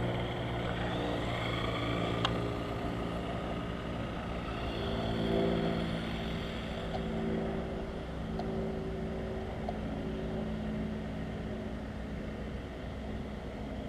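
Steady low hum of a running vehicle engine, with fainter whines rising and falling above it and a single sharp click about two seconds in.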